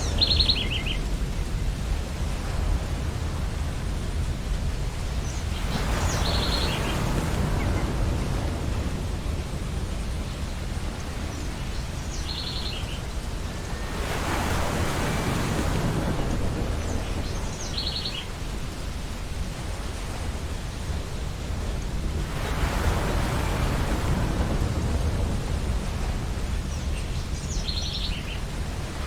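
Surf washing onto a beach: a steady hiss that swells with each wave about every eight seconds. A bird gives a short high call that drops in steps, five times about six seconds apart.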